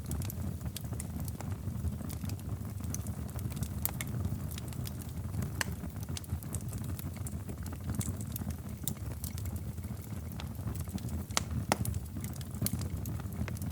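Fireplace fire crackling: frequent sharp, irregular pops and snaps over a steady low rumble, with two louder pops near the end.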